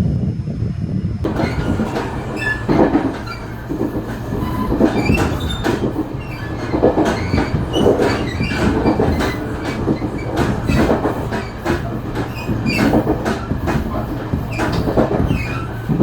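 Freight train wagons rolling past, a steady rumble with wheels clattering over rail joints and short, high wheel squeals.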